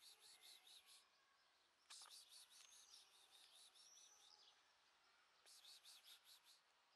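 Faint birdsong: three runs of quick, high chirps, each lasting a second or two, with a couple of short whistled notes in the middle.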